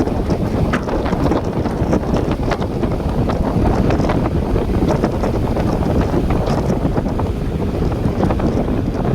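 Wind buffeting the microphone: a steady, heavy low rumble with scattered small clicks and crackles.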